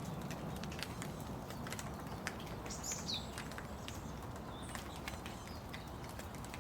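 Steady rain with scattered individual drips tapping sharply nearby. About three seconds in, a bird gives a single short high call that falls in pitch.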